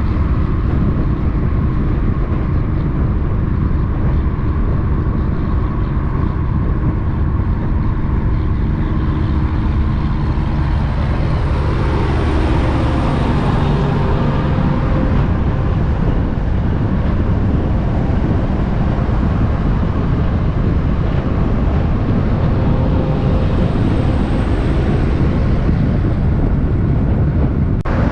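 Steady road-traffic noise of vehicles driving past with engines running, swelling as a vehicle passes about halfway through.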